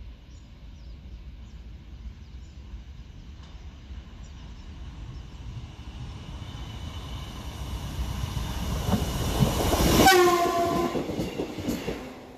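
Diesel railcar approaching and running past close by. Its sound builds to a peak about ten seconds in, where the pitch drops suddenly as it passes, then fades.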